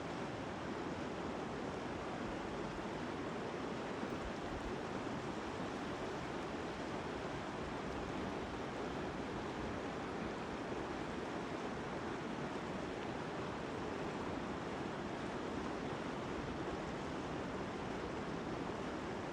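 Steady rushing noise, even throughout.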